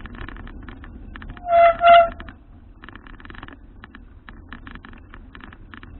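A horn sounds two short toots in quick succession, each a steady tone with overtones, about a second and a half in.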